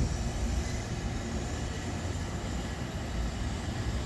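Hankyu 1000 series electric train moving through the station, a steady low rumble of motors and wheels on the rails.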